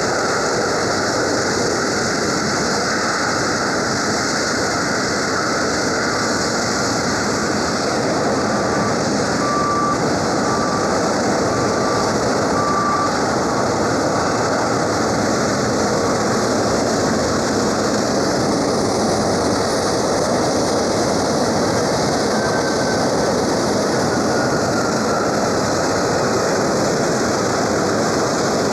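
Jet engines of a Boeing C-17A Globemaster III, four Pratt & Whitney F117 turbofans, running steadily and loudly on the ground, with a faint turbine whine. A few short high beeps sound about a second apart midway.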